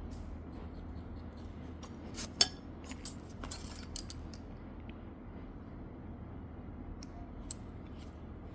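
Small metal manicure tools clicking and clinking: a quick cluster of sharp clicks about two to four seconds in, then a few more near the end, over a steady low hum.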